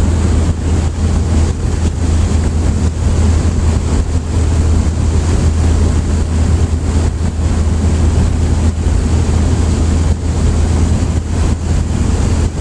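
Loud, steady low drone with rushing noise over it, unchanging throughout.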